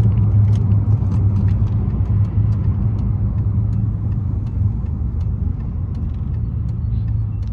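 The muffler-deleted exhaust of a 2002 Pontiac Grand Prix GT's 3.8-litre V6, heard from inside the cabin as a steady low drone at low revs. It slowly gets quieter as the car slows to a stop.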